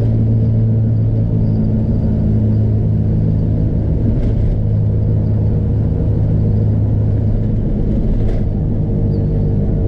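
Lifted truck cruising steadily, heard from inside the cab: the LS V8 and its Flowmaster dual exhaust give a steady low drone under the hum of 36-inch Super Swamper tires on pavement, which are a little noisy. Two faint knocks come about four and eight seconds in.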